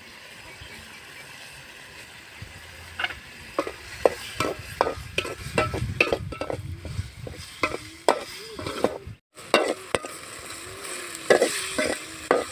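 Spoon stirring a frying mushroom gravy in a pan: a soft sizzle at first, then from about three seconds in, repeated knocks and scrapes of the spoon against the pan. The sound cuts out briefly past the middle.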